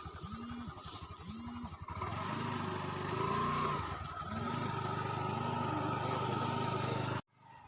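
Domestic cat purring close to the microphone, a low rumble swelling about once a second, cutting off suddenly near the end.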